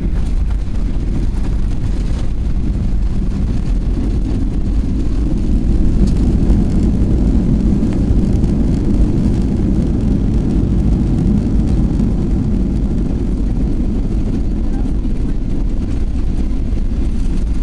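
Boeing 737-800 cabin noise during the landing roll: a steady low rumble from the engines and wheels on the runway, swelling for a few seconds in the middle.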